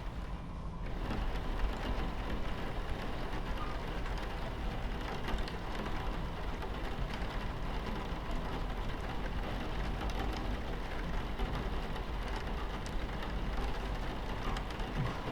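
Steady low rumble of a train running along the tracks, with rain pattering on the window over it.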